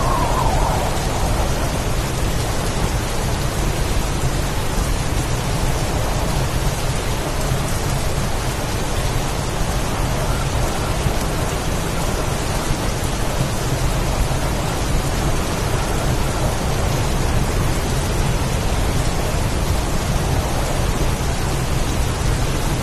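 Rainstorm: steady heavy rain with a constant low rumble underneath.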